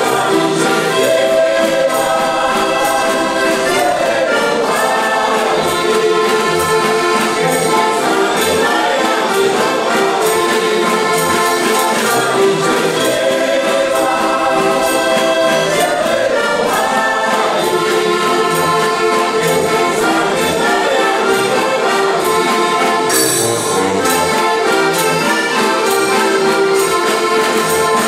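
Slovak folk song played on heligonkas (diatonic button accordions), with a group singing along; steady, continuous music with no pauses.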